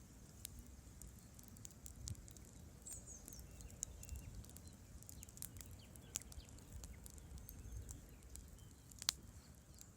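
Wood campfire crackling: logs burning with scattered sharp pops and snaps over a low steady rumble, the loudest pop about nine seconds in.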